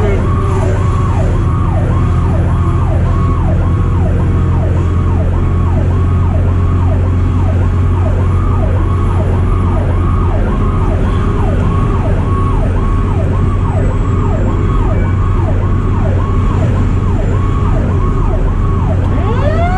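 Fire truck's electronic siren on yelp, sweeping rapidly about twice a second over the steady low drone of the truck's engine, heard from inside the cab. Right at the end a second siren tone starts rising in pitch.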